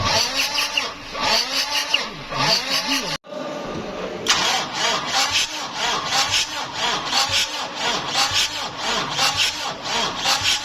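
Starter motor cranking a 1KD diesel engine in rhythmic pulses, about three a second, without the engine firing: a cranks-but-no-start condition. The sound breaks off sharply about three seconds in, then the cranking resumes.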